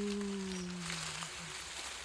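A woman's voice holding a long, low sung note that sags slightly in pitch and stops about a second and a quarter in, followed by a brief second note. A steady hiss comes up underneath about halfway through.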